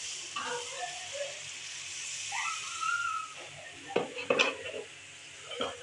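Ground tomato, ginger and garlic paste going into browned onions in hot oil in a kadhai, sizzling steadily as it is stirred, with a few sharp knocks of utensils about four seconds in and again near the end.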